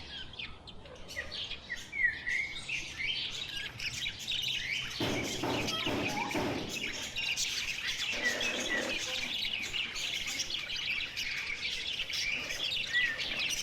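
A dense chorus of many small caged birds chirping and twittering continuously, with a louder, harsher call or squawk about five seconds in lasting a couple of seconds.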